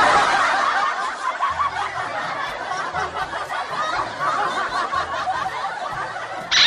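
A crowd of many voices laughing together, dense and overlapping.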